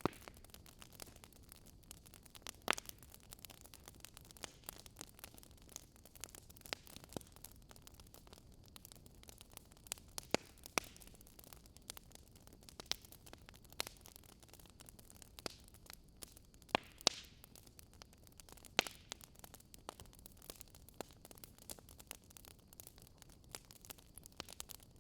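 Campfire crackling: burning wood gives irregular sharp pops and snaps over a faint steady hiss, with a few louder pops about 3 s in and in a cluster around 17 s.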